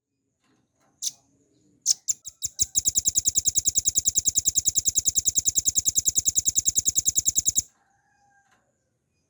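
Velvet-fronted nuthatch singing: one sharp high note, then notes that speed up into a long, fast, even trill of about ten notes a second that stops suddenly after about five seconds.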